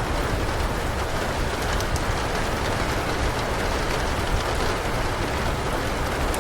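Steady heavy rain, with a few sharp crackles from a wood fire in a fireplace.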